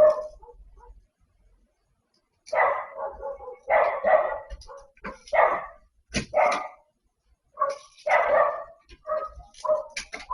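A dog barking repeatedly in short barks, starting after a brief silence about two and a half seconds in.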